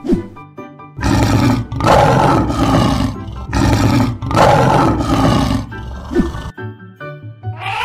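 Lion roar sound effect over background music: the roar starts about a second in and goes on for about five seconds before the music is left alone.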